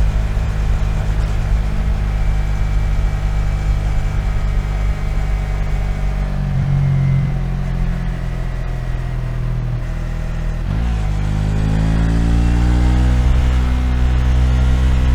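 Yamaha MT-03's 321 cc parallel-twin engine running at steady revs while riding. About eleven seconds in the revs dip briefly, then rise over a couple of seconds as the bike accelerates, and hold at a higher pitch.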